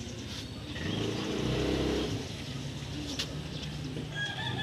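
A motor vehicle engine passing by, louder about a second in and fading after about two seconds.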